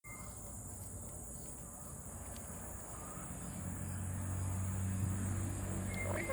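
A steady high insect-like buzzing trill throughout, with a low hum growing louder from about halfway. Near the end comes one brief whistle rising in pitch, a call from a black-capped lory.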